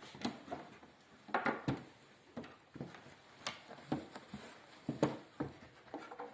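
Handling noise: a dozen or so light, irregular knocks and rustles of objects being moved about.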